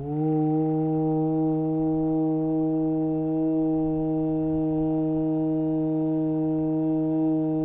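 A voice chanting a long 'Uuu' (Ukara) aloud in Ahata chanting, sliding briefly up at the start and then holding one steady low note.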